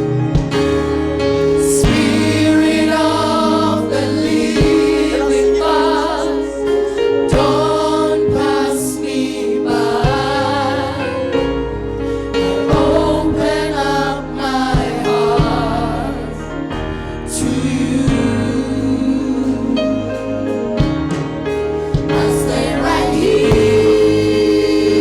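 A church worship team performing a gospel song, with a choir singing over keyboard, bass and drums.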